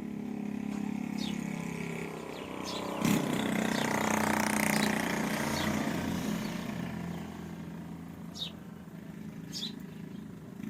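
Old black stationary diesel engine running steadily, swelling louder for a few seconds about a third of the way in before settling back, with a sharp click as the swell begins.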